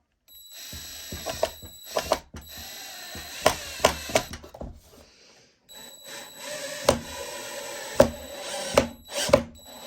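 Cordless drill driving wood screws into scrap-wood boards, two runs of steady motor whine with sharp clicks, pausing briefly about halfway.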